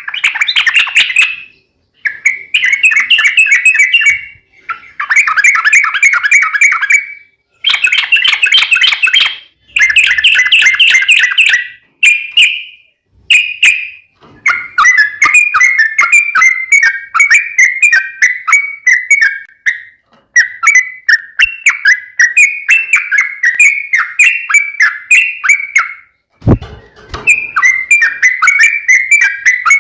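Yellow-vented bulbul (trucuk) singing fast chattering phrases of a few seconds each with short pauses between them, then running into longer unbroken rolling chatter in the long 'ropel' style. A brief thump about 26 seconds in.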